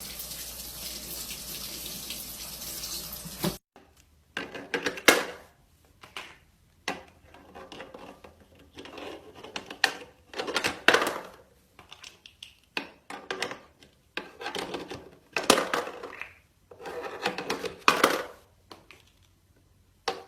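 Water running steadily from a tap, cutting off suddenly after about three and a half seconds, followed by a series of short, irregular bursts of sound.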